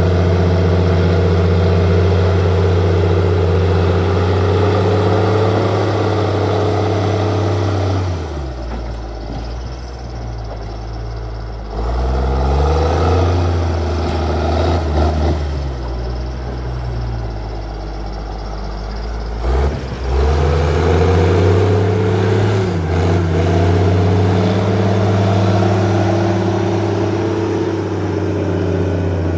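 Heavy equipment's diesel engine running at working speed. It drops to a lower speed twice and comes back up.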